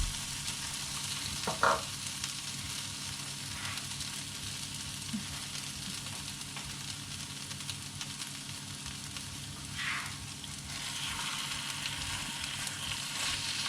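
Chicken pieces sizzling steadily in hot oil and frying spice paste in a pan, stirred now and then, with a couple of short scrapes about two seconds in and again near ten seconds.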